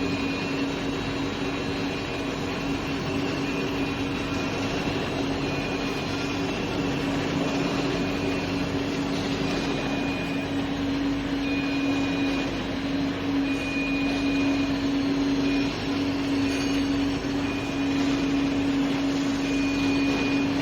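Steady drone of industrial machinery, with a strong low hum over a noisy wash, and a thin high tone that sounds in short stretches on and off throughout.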